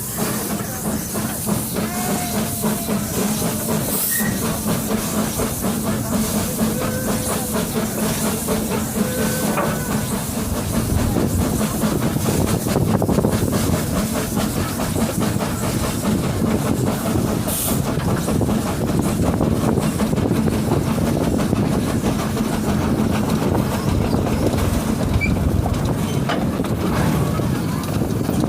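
Steam train moving forwards, with hissing steam and the rhythmic clickety-clack of carriage wheels over the rails. It grows a little louder about ten seconds in.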